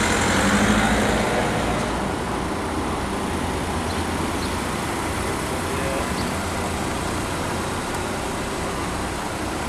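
Car engines running at walking pace: a hatchback passes close by, loudest in the first second or two, then another car creeps up and idles with a steady low hum.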